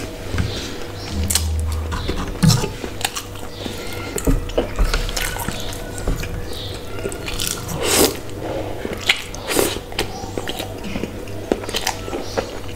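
Chewing and mouth sounds of a person eating soft bread and then spicy instant noodles, with many short wet smacks and clicks; noodles are slurped near the end.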